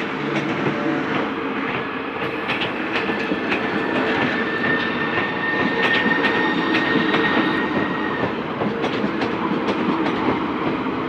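Southeastern Class 395 Javelin electric multiple unit passing over the level crossing: a steady rumble of rolling wheels with clicks over the rail joints, and a thin high whine for several seconds mid-way.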